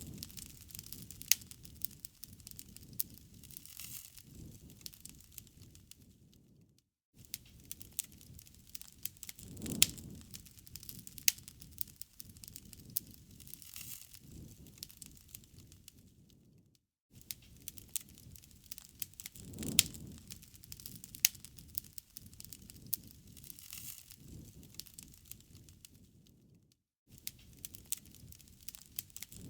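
Wood fire crackling, with many sharp pops and snaps over a soft low rumble of flames that swells about every ten seconds. The sound cuts out for a moment three times, where a short loop repeats.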